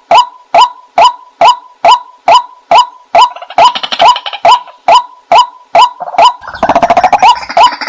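White-breasted waterhen calling: short, hooked 'kwak' notes repeated about twice a second. A second, busier layer of calling joins about three seconds in, and near the end there is a fast chatter of notes.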